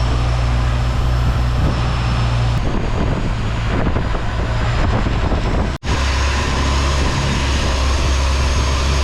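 A boat's engine running steadily with a strong low hum under a loud, even hiss; the sound drops out for an instant about six seconds in.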